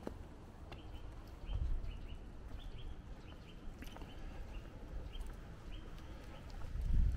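A small bird chirping over and over in short calls, with scattered footsteps on stone paving and low wind rumble on the microphone.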